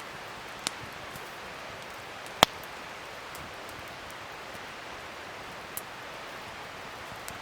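Wood fire crackling: a steady hiss broken by a few sharp pops, the loudest about two and a half seconds in.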